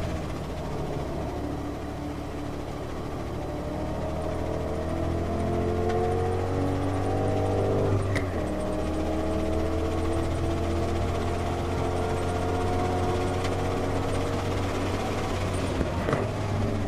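Ford Mustang engine at high revs under hard acceleration on track, its note climbing steadily in pitch. About eight seconds in the note drops at an upshift and climbs again, and near the end it breaks off again, with steady road and wind noise underneath.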